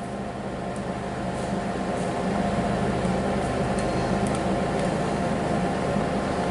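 D4CB diesel engine running steadily on a test stand outside a vehicle, with a steady whine over the engine note, during an oil-pressure check.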